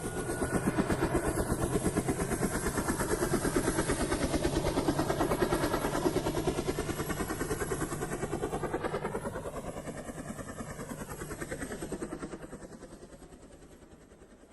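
A vehicle sound effect: an engine or rotor with a rapid, even beat over a low hum, with a sweep in pitch partway through as it passes, then fading away over the last few seconds.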